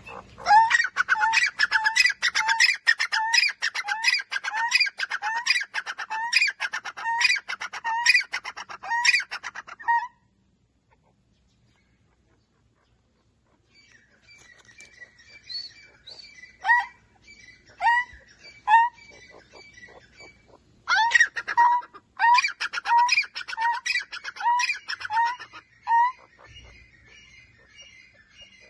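Grey francolin (teetar) calling: a loud, quick run of evenly repeated notes, roughly one and a half a second, for about ten seconds. It stops dead for a few seconds, then calls resume more faintly and sparsely before another quick run of repeated notes.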